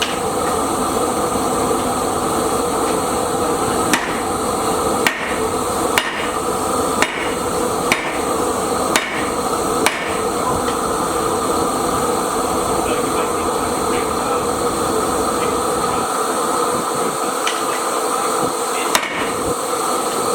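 Hammer blows on hot steel: sharp metallic strikes, about one a second for several seconds, then a single strike near the end. A steady machinery hum runs underneath.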